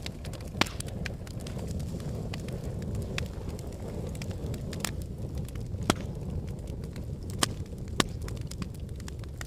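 Logs burning in a fireplace: a steady low rumble of flames with scattered small crackles and four or five sharp pops from the burning wood.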